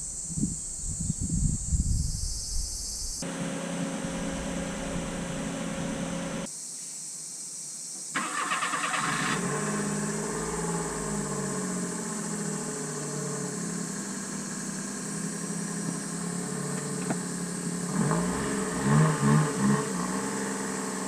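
A vehicle engine running steadily, heard in several short segments with abrupt cuts between them.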